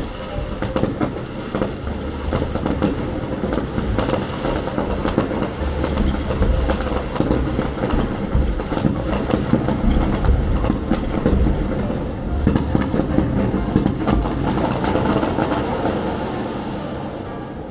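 Fireworks going off in a rapid barrage: dense crackling and popping over repeated low booms, easing off near the end.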